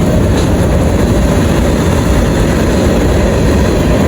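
Union Pacific freight train passing at speed: a loud, steady rumble of the train rolling by, mixed with the noise of heavy rain.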